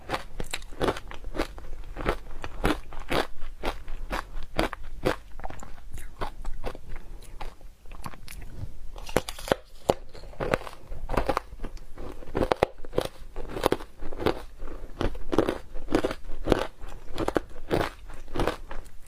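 Close-up crunching of ice with matcha being bitten and chewed, a rapid run of sharp crackling crunches several times a second, with a brief lull about halfway through.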